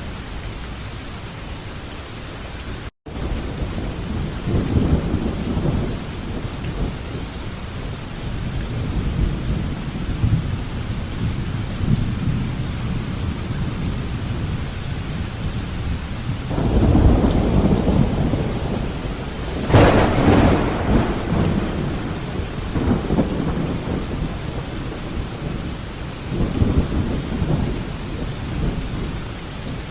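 Thunderstorm: steady rain with several low rolling rumbles of thunder, and a sharp thunderclap about two-thirds of the way through that rolls on into a rumble. The sound cuts out for a split second about three seconds in.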